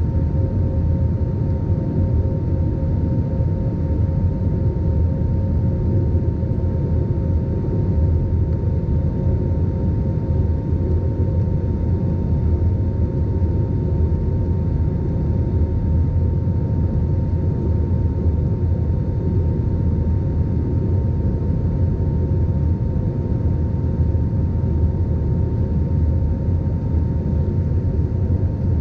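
Airbus A320 jet engines running at a steady setting: an even, deep rumble with two constant whining tones that do not change in pitch.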